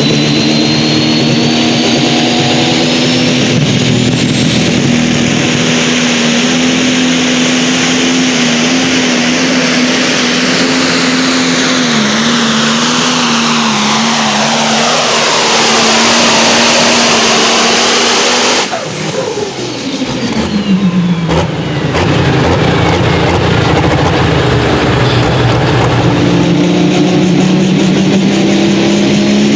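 A competition pulling vehicle's engine running flat out under load on a hook down the pulling track. About two-thirds through it cuts off, and its pitch falls as it winds down. Then an engine runs steadily again.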